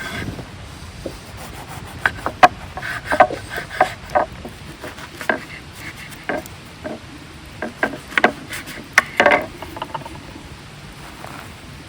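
Wood being handled and worked: irregular wooden knocks and short scraping rubs, clustered in two busy spells, over a steady low hiss.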